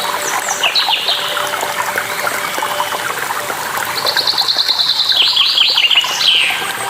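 Songbirds chirping over a continuous trickle of running water. About four seconds in, one bird gives a rapid run of high notes that turns into a falling trill.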